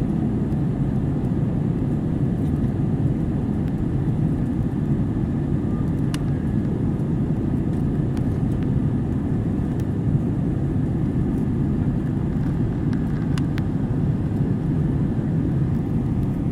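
Steady airliner cabin noise: an even, low rumble of the engines and rushing air, with a couple of faint ticks.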